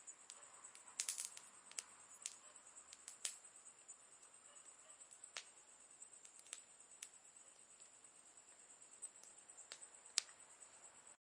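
Quiet campfire crackling: irregular sharp pops and snaps of burning wood, with a quick cluster about a second in, over a faint steady hiss and a thin high tone.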